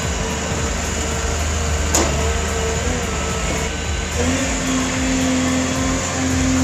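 Heavy machine's engine running steadily, its note changing about four seconds in, with a single short click about two seconds in.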